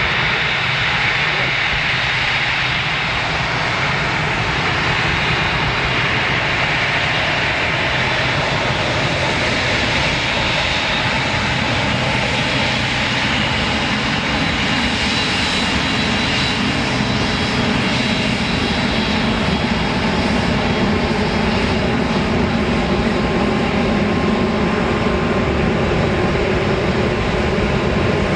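Airliner engines running loud and steady, a dense engine noise with high whining tones, growing a little louder in the second half.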